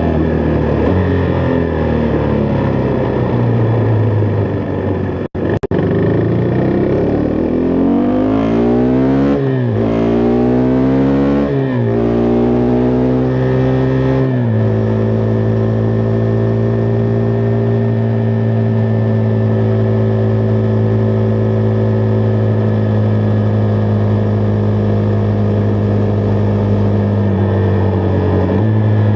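Husqvarna Vitpilen 401's single-cylinder engine pulling away: its pitch rises and drops back through upshifts between about eight and twelve seconds in, then it settles to a steady cruise from about halfway. The sound cuts out briefly about five seconds in.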